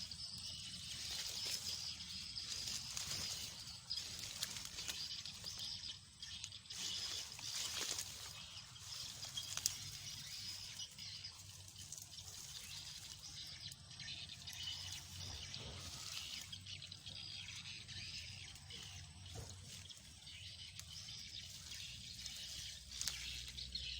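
Footsteps and rustling through grass and brush, with scattered crackles of stems and leaves, over a steady high hiss of outdoor ambience.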